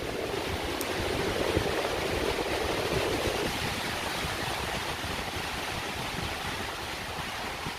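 Strong wind gusting through the woods, a dense steady rush, with wind buffeting the microphone as an uneven low rumble.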